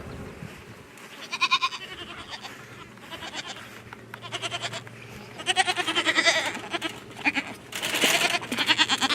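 Bottle-fed goat kids bleating, about six quavering bleats in a row, the loudest around the middle and near the end.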